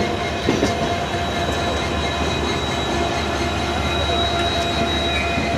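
Passenger train running at speed, heard from on board: a steady rumble of wheels on rails with thin, steady high whining tones and a couple of light knocks near the start.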